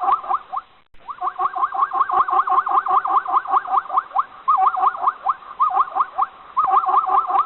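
An animal giving a rapid series of short, rising chirping squeaks, about seven or eight a second, in bouts with brief pauses between them.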